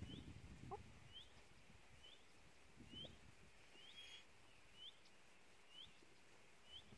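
A small bird repeating a short, faint rising chirp about once a second.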